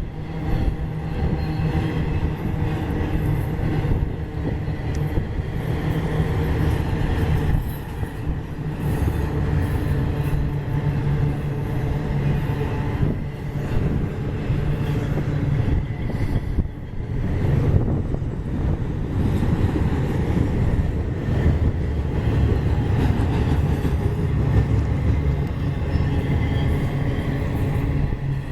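Union Pacific intermodal freight train rolling past: a steady heavy rumble of steel wheels on rail, with brief dips in loudness about eight, thirteen and seventeen seconds in.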